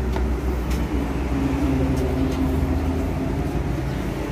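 Car engine idling with a steady low hum; a higher droning tone swells about a second in and eases off again.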